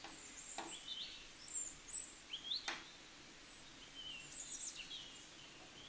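Faint small-bird chirps and short whistled calls, scattered through, some rising and some falling in pitch. Two light clicks come in between, the sharper one about two and a half seconds in.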